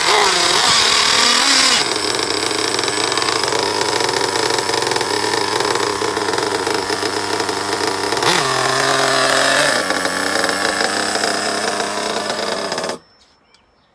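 O.S. Max 30VG nitro engine in a Losi 8ight 2.0 buggy running and revving, its pitch rising and falling with the throttle. About a second before the end it cuts out suddenly when the brakes are applied, a sign the idle needs adjusting.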